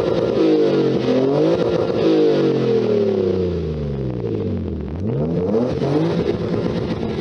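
Car engine revved hard in neutral through a newly fitted aftermarket exhaust. Repeated quick blips rise and fall in pitch, then a long fall to low revs near the middle and another sharp rev up and down near the end.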